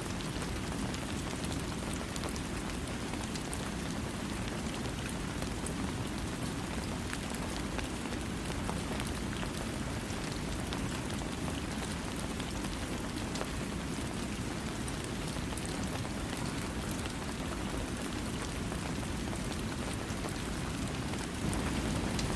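Steady rain falling without thunder: an even, dense hiss with fine drop patter, growing slightly louder near the end.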